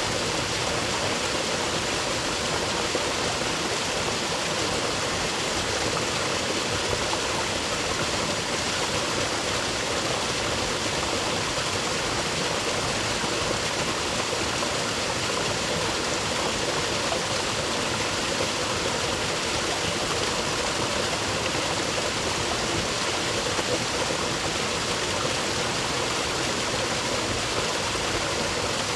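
Rainforest creek running steadily: an even, continuous rush of flowing water over rocks.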